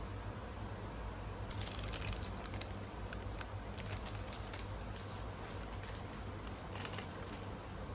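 Close-miked eating sounds: a run of small, crisp clicks and crackles starting about a second and a half in, over a steady low hum.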